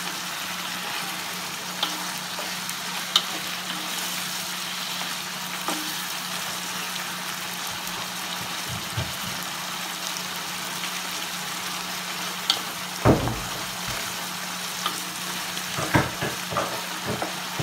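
Chicken, squid rings, shrimp and mussels sizzling steadily in oil in a wide paella pan as they are stirred with a wooden spoon. The spoon knocks against the pan a few times, about 13 seconds in and in a quick cluster near the end.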